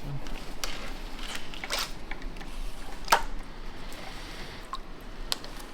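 Metal transmission parts and hand tools clinking and knocking at scattered moments during teardown, with one sharp click about three seconds in.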